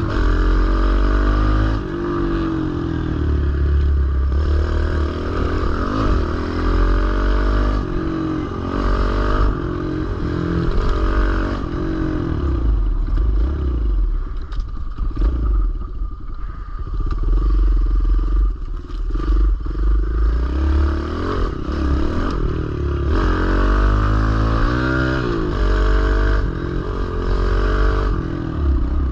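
Kawasaki KLX110L pit bike's small single-cylinder four-stroke engine being ridden, its pitch rising and falling again and again as the throttle opens and closes, somewhat quieter around the middle.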